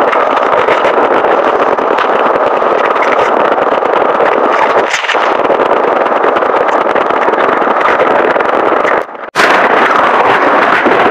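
Close-miked crunching and chewing of chocolate-coated snacks, a dense crackle of rapid small clicks with no pause. It drops out for an instant about nine seconds in and resumes.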